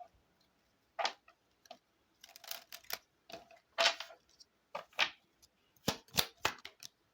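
Lenormand cards being shuffled and handled: an irregular series of short card snaps and clicks.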